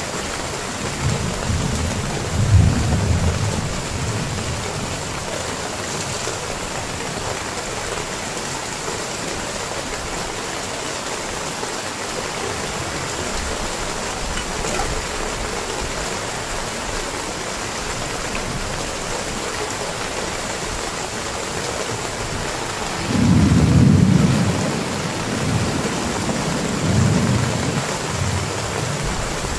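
Heavy rain falling steadily, with low rolls of thunder a second or so in and again, louder, about three-quarters through.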